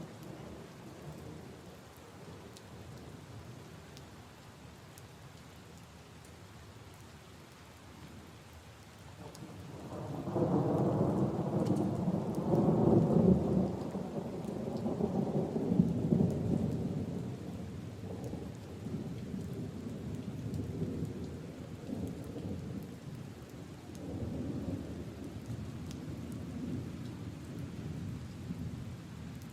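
Steady rain falling on leaves and puddles. About ten seconds in, a long low roll of thunder swells up and slowly fades.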